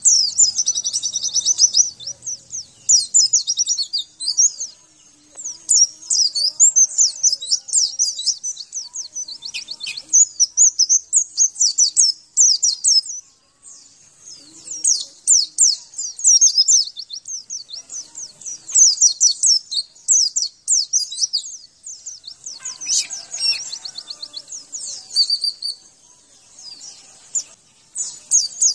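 White-eye (pleci) song: long runs of rapid, high twittering chirps broken by short pauses. It is a 'masteran' recording, played to a caged white-eye to prompt it to answer and start singing.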